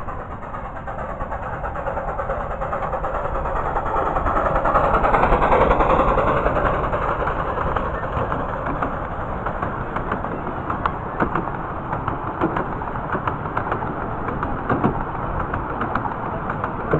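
Miniature railway train passing close by, growing louder to a peak about five seconds in and then easing off, followed by scattered sharp clicks and knocks.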